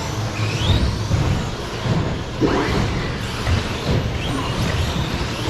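Several 1/16-scale electric RC short course trucks racing, their motors whining up and down in pitch as they speed up and slow down over a low rumble of track noise.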